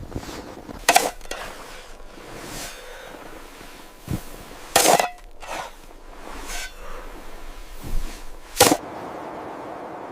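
Sharp cracking knocks: three loud ones about four seconds apart, with fainter knocks and snaps between them.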